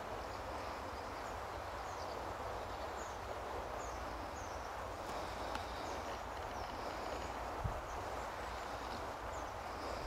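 A bird's short, high, falling chirps repeated about once a second over a steady outdoor rushing background with a low rumble; a single sharp click about three-quarters of the way through.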